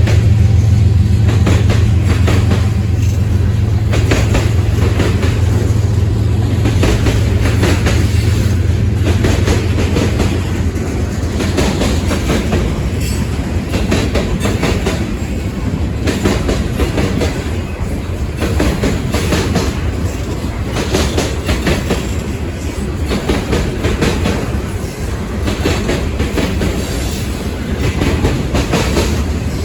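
Freight train cars rolling past, their wheels clacking steadily over the rail joints. A low steady hum in the first several seconds fades away.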